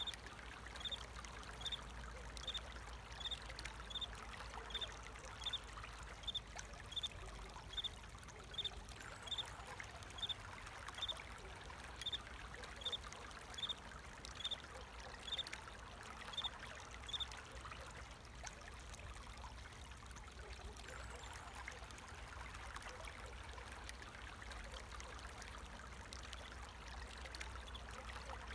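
Water flowing and trickling steadily, with a single cricket chirping in an even rhythm of a little more than one short high chirp a second; the cricket falls silent about two-thirds of the way through while the water runs on.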